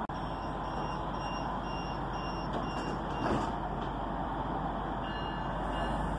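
Stadler GTW diesel railcar running at the station platform with a steady low engine hum, while a series of short electronic warning beeps sounds about twice a second. A single knock follows about halfway through, and another longer beep tone sounds near the end.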